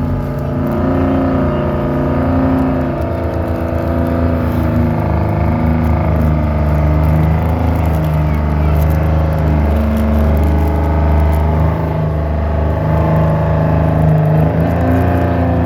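A pulling vehicle's engine running hard under load down the pull track, its pitch rising and falling as it works against the sled.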